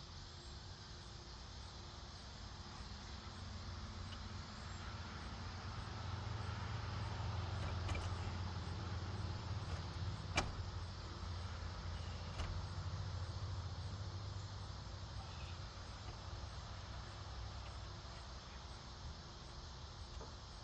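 Low engine rumble of a motor vehicle that grows louder over several seconds and then slowly fades, with one sharp click about ten seconds in.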